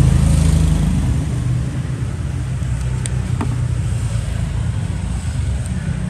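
A steady low rumble like a running motor vehicle, with two short clicks about three seconds in.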